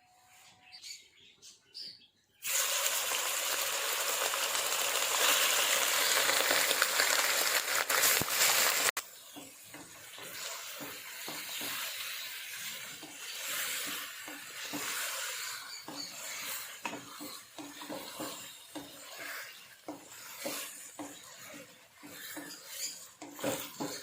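Kitchen cooking sounds: a loud steady hiss, like food frying in hot oil or a running tap, starts after about two seconds and cuts off suddenly. It is followed by irregular scraping and clinking of stirring in a pan over a fainter hiss.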